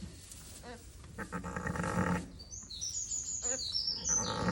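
Sheep bleating: short, quavering lamb calls and a longer, lower bleat about a second in, with birds singing from about halfway.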